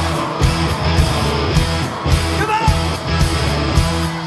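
Live rock band music with electric guitar and a driving bass and drum beat, with singing coming in about halfway through.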